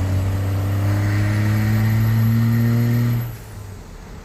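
Cummins diesel truck engine pulling hard with an oversized semi-truck turbocharger, a high turbo whistle climbing over the engine's slowly rising drone. About three seconds in, the throttle lifts: the engine drops off and the turbo whistle falls away.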